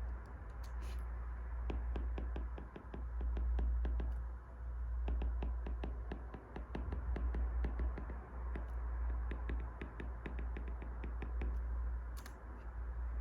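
Wood fire burning, with quick irregular crackles and pops over a steady low rumble, and two sharper snaps, one near the start and one near the end.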